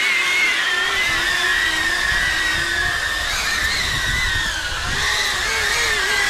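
Caged multirotor drone's propellers whining while it flies, the pitch wavering up and down as the motors change speed, with a low rumble underneath from about two seconds in.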